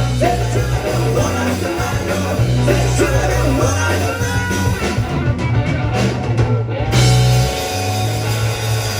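Rock band playing live: guitar, bass and drum kit with a singing voice, and a loud new chord struck about seven seconds in.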